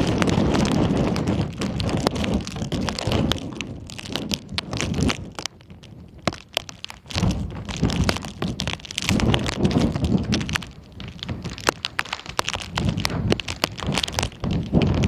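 Strong gusting wind buffeting the microphone in deep low rumbles that swell and ease, dropping off briefly about five seconds in. Dense sharp crackles and ticks run through it.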